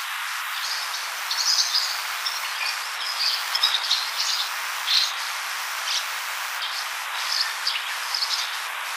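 Dawn birdsong: short, high chirps from several small birds, scattered throughout, over a steady hiss from the radio-cassette recording.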